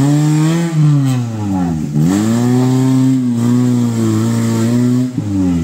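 Maruti Suzuki Gypsy 4x4's engine revving hard under load as it claws out of a deep muddy rut. The pitch rises at the start, dips just before two seconds in, holds high through the middle, then drops and climbs again near the end.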